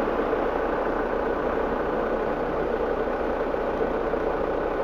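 Motorcycle engine running steadily with an even, unbroken drone.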